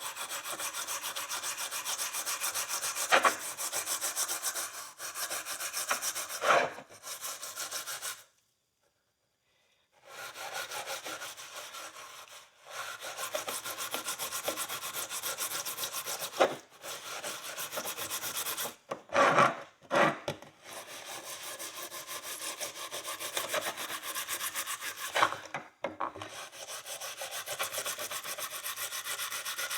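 Steel wool scrubbing a rusty steel horseshoe in fast, continuous back-and-forth strokes. The scrubbing pauses for about two seconds partway through, and a few louder knocks come from the shoe being handled.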